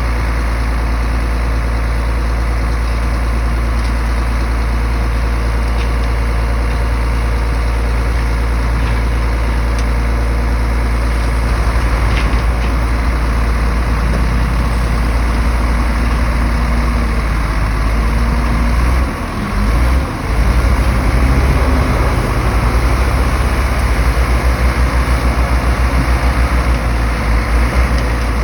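Heavy bulldozer's diesel engine running steadily. About two-thirds of the way through it dips briefly twice, then its low note pulses rapidly.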